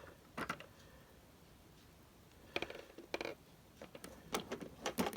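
A handful of scattered light clicks and knocks as a plastic G scale toy locomotive is handled.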